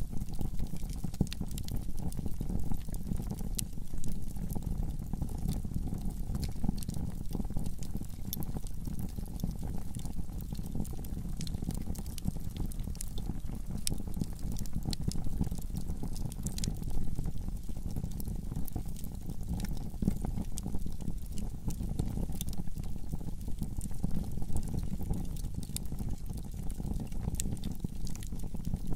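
Wood fire burning in a fireplace: a steady low rush of flames under frequent small crackles and pops.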